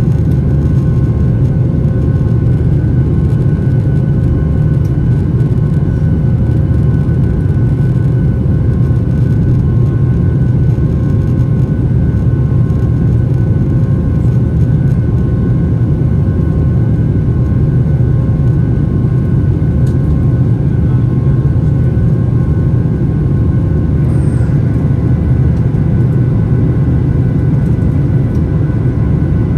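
Steady cabin drone of a Boeing 737-800 with its CFM56 turbofan engines running: a loud, even low rumble with a faint steady whine of several tones above it.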